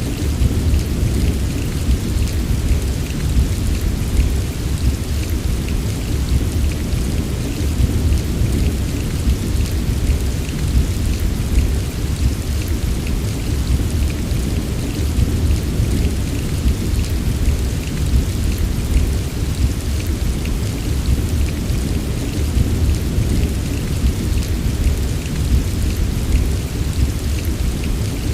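Steady heavy rain with a deep, even rumble under it and a fine patter of drops on top, unchanging throughout.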